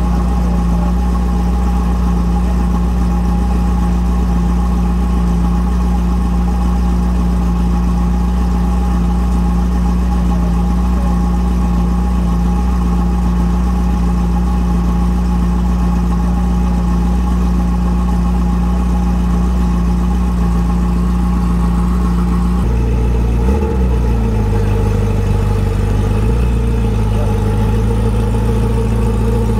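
Ferrari F40 twin-turbo V8 idling steadily. A little over two-thirds of the way through, its note shifts suddenly, with a brief wobble in pitch.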